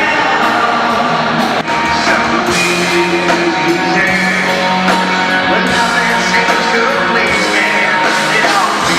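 Loud rock music with singing and guitar.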